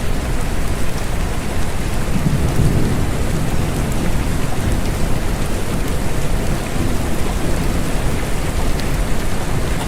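Steady rain, an even hiss with a deep low rumble underneath that swells briefly about two seconds in.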